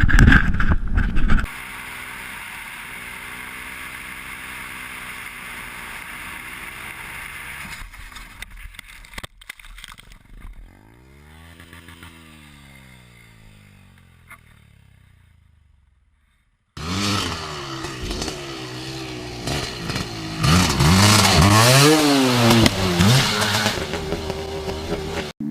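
Motorcycle engines running and revving across several cut-together clips: a steady drone, one engine swelling and fading away, then hard revving with pitch rising and falling over and over.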